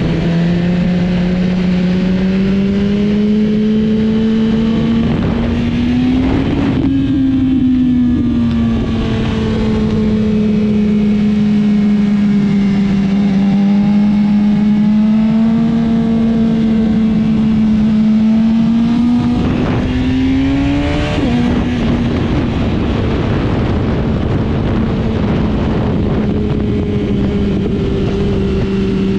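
A motorcycle engine running hard at fairly steady revs. Twice, about seven seconds in and again past twenty seconds, the pitch climbs and then drops back, like a gear change.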